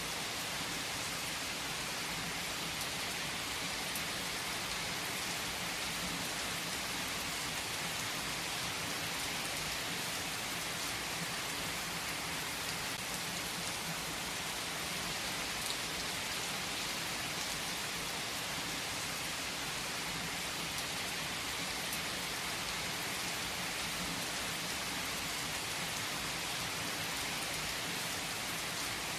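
Steady rain falling, an even hiss of drops on surfaces with an occasional single drop ticking out.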